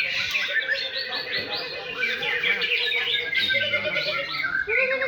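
Several green leafbirds (cucak ijo) singing at once, a dense overlapping tangle of quick chirps and whistled phrases with no pause.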